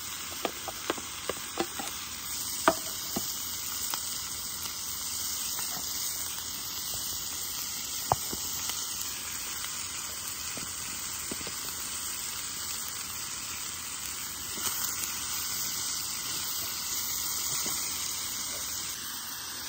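Chicken and onions sizzling steadily as they fry in butter in a cast iron skillet. A wooden spoon gives a run of sharp taps against the metal in the first three seconds and one louder knock about eight seconds in.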